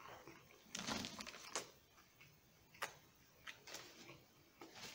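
Faint close-up chewing of a toasted sub sandwich: a bite with soft crunches about a second in, then a few scattered wet mouth clicks and crackles as it is chewed.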